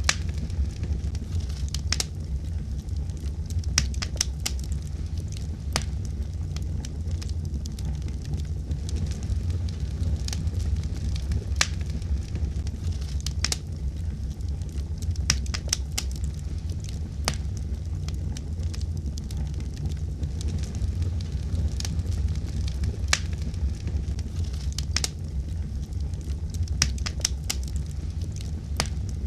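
Wood fire burning in a fireplace: a steady low rumble with irregular, scattered sharp crackles and pops.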